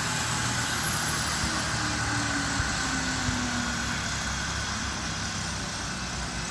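Air ambulance helicopter's turbine engines winding down, a high whine falling in pitch over a low rumble, the whole noise slowly fading.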